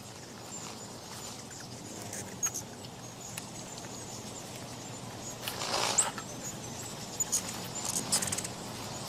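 Ruby-throated hummingbirds at feeders: a steady whirring of wings with short high chips and clicks scattered through, and a louder flurry about six seconds in.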